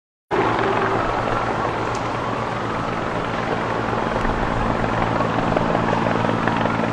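Helicopter running steadily overhead: a constant drone with several steady low hums, starting right after a brief dropout in the sound at the very beginning.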